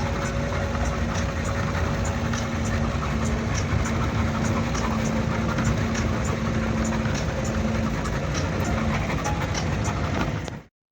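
Car driving: steady engine and road noise with a constant hum, cutting off suddenly near the end.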